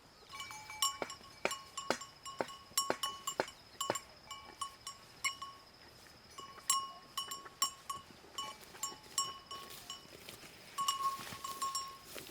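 Irregular clanking knocks, several a second at first and sparser later, each with a short ringing tone at the same few pitches, over a faint steady high whine.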